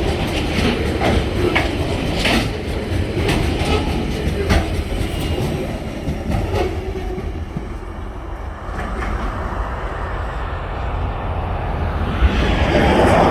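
Coal train wagons rolling past, their wheels clicking over rail joints in an irregular clatter that thins out about seven seconds in. A road vehicle's noise swells near the end.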